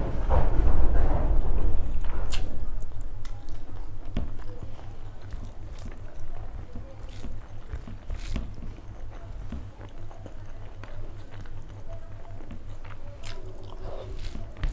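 Close-miked chewing of rice and curry, with short wet clicks from the mouth, and the squelch of fingers mashing rice into curry gravy. It is loudest in the first two or three seconds.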